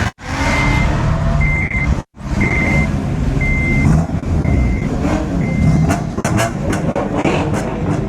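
A vehicle's reversing alarm beeping about once a second, six beeps that stop about six seconds in, over the low rumble of engines running. The sound cuts out briefly twice near the start.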